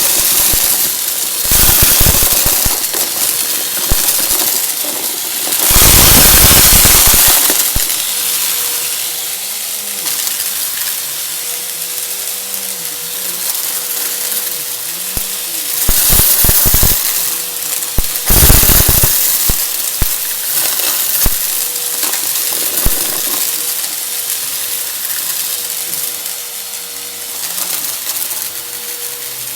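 Vacuum cleaner running with a steady motor whine while sucking up confetti, with irregular muffled crunching and crackling as debris goes up the nozzle, in several louder bursts.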